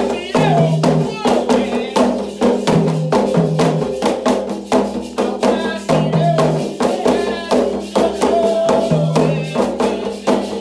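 Candomblé toque for Ogum: hand drums and other percussion played in a fast, steady rhythm, with voices singing over them.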